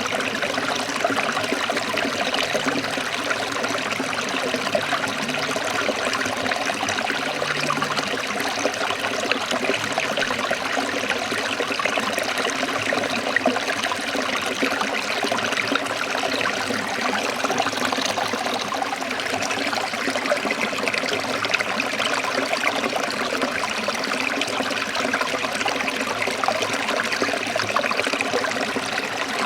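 Small forest stream trickling and splashing over rocks, a steady even rush of water.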